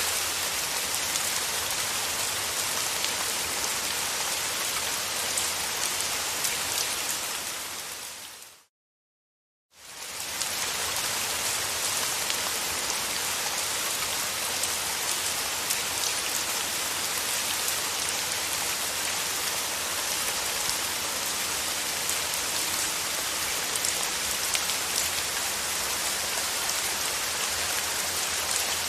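Steady rain falling, an even hiss with scattered drop patter. About eight seconds in it fades out to silence for about a second, then fades back in.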